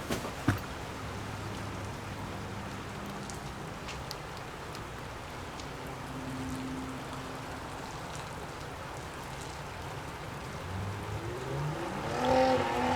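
Steady rush of gusty wind, with a faint engine hum from passing traffic and a sharp click about half a second in. Louder tones that shift in pitch build near the end.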